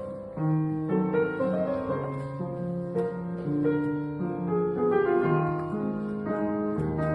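Solo piano playing a slow, gentle piece: held chords under a melody that moves to a new note about every half-second.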